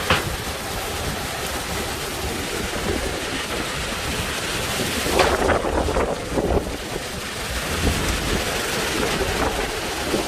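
Hurricane wind and rain, the wind buffeting the microphone, with a burst of stronger gusts a little past halfway.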